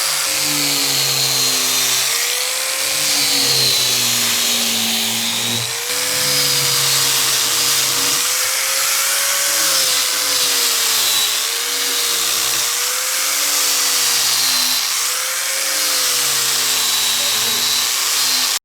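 A power tool running steadily for the whole stretch, with a dense hiss and a whine that wavers up and down in pitch.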